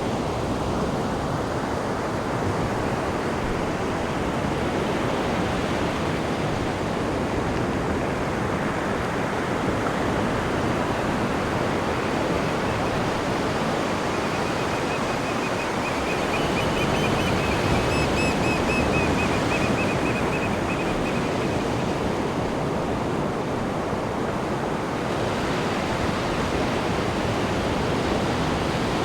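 Sea waves washing and breaking on a shore: a steady rush of surf that swells and eases gently. A high, pulsed trill sounds over it for several seconds around the middle.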